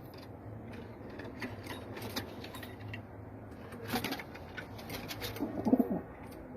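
Domestic pigeons cooing, with the clearest, loudest coo about five and a half seconds in, over scattered light clicks and scuffs.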